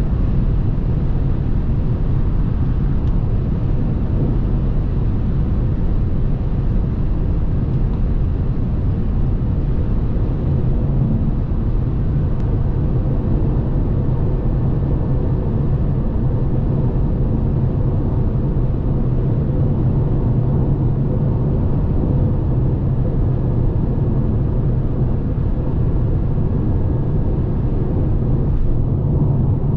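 Steady road and wind noise of a 2017 Lexus NX 300h hybrid cruising at autobahn speed, heard from inside the cabin, with a low, even rumble.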